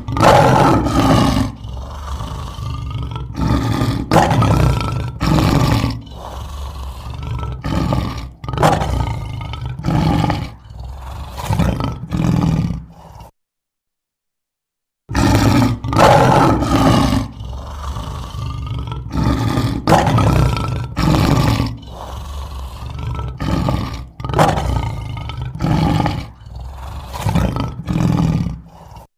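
Lion roaring bout: a few full, loud roars followed by a series of shorter grunting roars, about one a second, tailing off. The same bout plays twice, with about two seconds of silence between the two.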